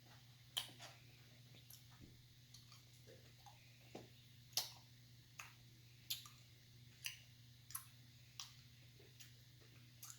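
Faint, sharp, irregular clicks, one or two a second, over a low steady hum: the small sounds of a roll of Mentos chewy candy being opened and eaten.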